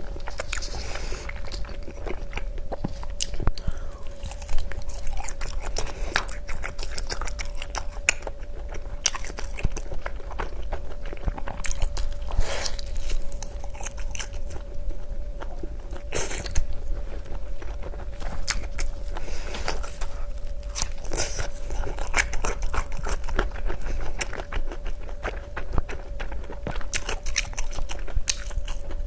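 Close-up mouth sounds of someone biting and chewing crunchy food, a dense irregular run of crisp crunches and wet clicks, over a faint steady hum.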